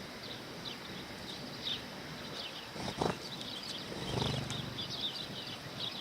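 Sparrows chirping in many quick, short notes. There is one sharp thump about three seconds in and a brief low rumble a second later.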